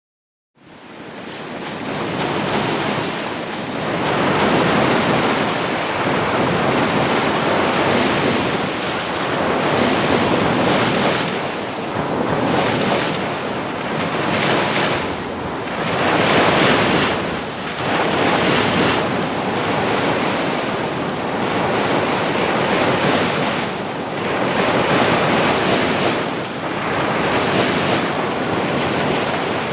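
Ocean surf: waves breaking and washing in continuously, swelling and easing every few seconds. It fades in from silence about half a second in.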